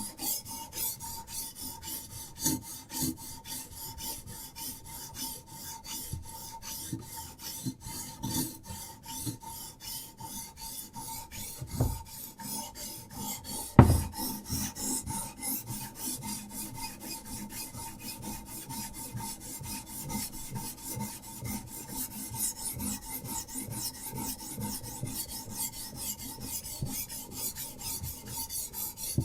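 Diamond sharpening stone on a Hapstone RS guided knife sharpener scraping back and forth along a knife blade's edge in rapid, even strokes. Two sharp knocks come about twelve and fourteen seconds in, the second the loudest.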